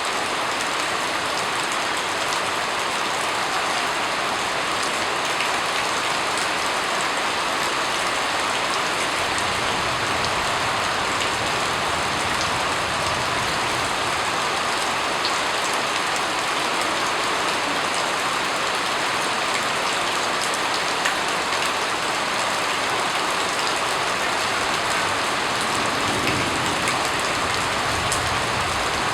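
Steady rain falling and pattering on a surface, an even hiss thick with small drop ticks. A faint low rumble comes in and out underneath.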